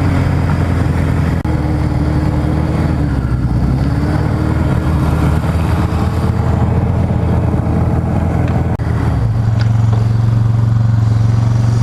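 An engine running with a wavering pitch; about nine seconds in it gives way to a steadier, deeper, louder drone.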